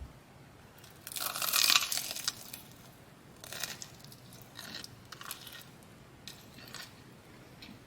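Close-up crunching of crispy food being bitten and chewed: one loud crunchy bite about a second in, then a few shorter, fainter crunches.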